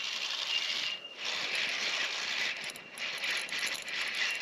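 Bell miners (bellbirds) calling, a thin high ringing note that comes and goes, over a steady rough rattling, rustling noise as a small fish is brought in on light fishing gear.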